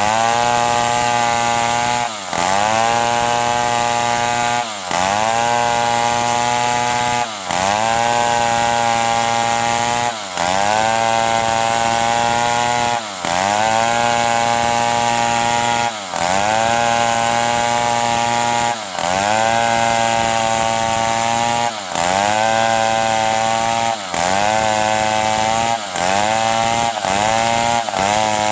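Stihl 070 two-stroke chainsaw running hard while sawing wood. Its engine note dips briefly and climbs back about every two and a half to three seconds.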